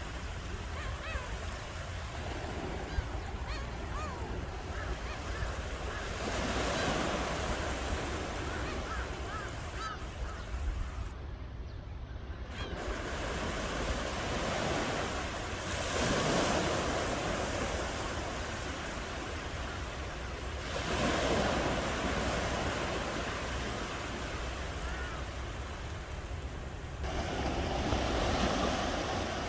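Ocean surf: a steady wash of water with a wave swelling in and breaking four times, every five to nine seconds.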